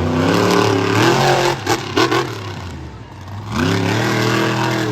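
Monster truck engine revving hard, rising in pitch, with a few sharp bangs about one and a half to two seconds in. It drops back briefly, then revs up again near the end.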